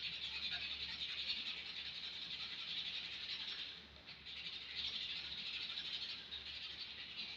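Sandpaper rubbed by hand along a painted wooden axe handle, a steady scratchy back-and-forth noise as the paint is sanded off, with a short pause about four seconds in.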